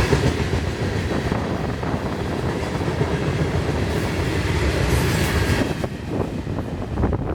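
Florida East Coast Railway freight cars rolling past on jointed rail, a steady clickety-clack of wheels with a low rumble. The noise drops away about six seconds in as the end of the train goes by.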